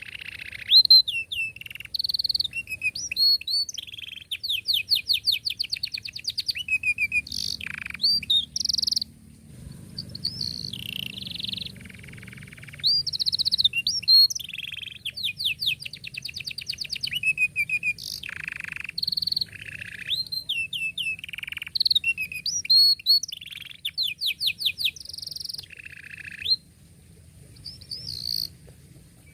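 Canary singing a long, continuous song of rapid trills, rolls and chirping notes, with only brief pauses.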